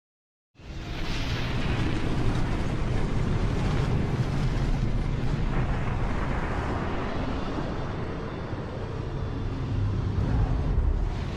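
Motocross motorcycle engines running loud and steady, starting suddenly about half a second in.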